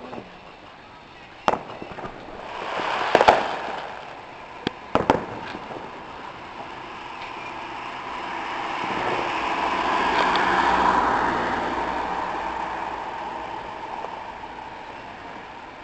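Fireworks exploding: a handful of sharp bangs in the first six seconds, two close together about three seconds in. After them a broad rushing noise swells, peaks about ten seconds in, and fades away.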